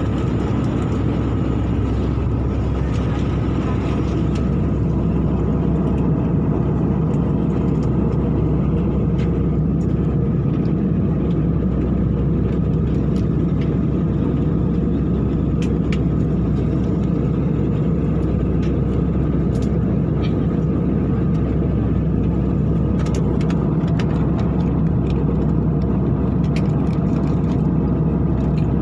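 Steady airliner cabin noise in flight: the engines and rushing air make a constant, loud drone with a few steady tones in it.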